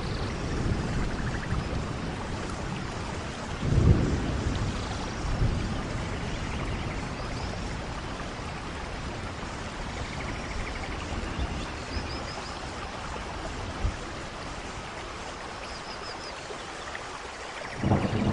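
Steady rain with rolls of thunder: the strongest rumble comes about four seconds in, a smaller one shortly after, and another builds near the end.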